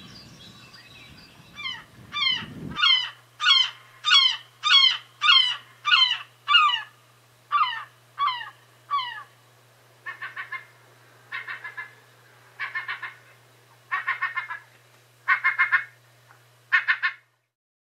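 A bird calling loudly: a run of evenly spaced, downward-sweeping calls, about three every two seconds. These give way to clusters of several quick notes repeated about every second and a quarter, then stop abruptly. A faint steady low hum sits underneath.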